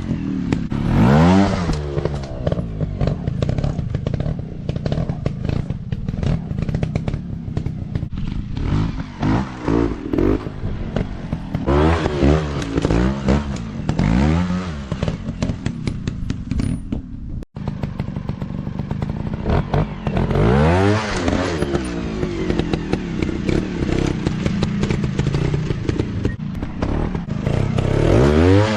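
Dirt bike engines revving hard in repeated bursts, the pitch climbing and dropping again and again as the riders throttle through the terrain, with clattering and knocks throughout. The sound cuts out for an instant about two-thirds through.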